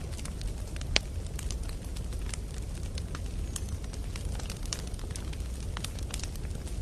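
Wood campfire burning with a steady low rumble and scattered sharp crackles and pops of burning logs, one louder pop about a second in.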